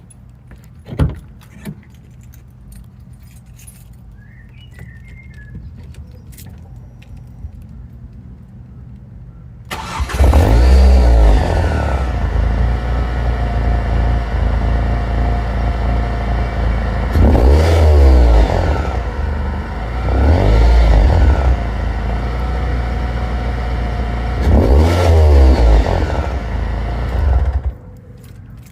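Ford Fiesta ST on its standard exhaust starting up about a third of the way in. It idles and is revved four times, then is switched off shortly before the end.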